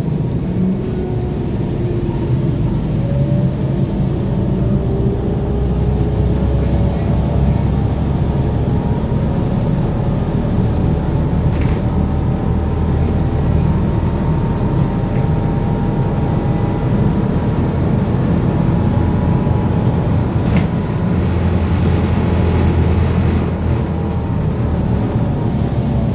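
BKM-32102 trolleybus underway, heard inside the cabin: the electric traction drive whines in several gliding tones that rise and fall with speed over a steady low running rumble. Two short knocks come through, about twelve and twenty-one seconds in.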